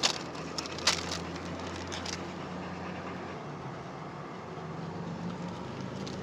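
Steady low hum of a vehicle engine running, with a few sharp clicks and crackles over it, the loudest at the start and about a second in.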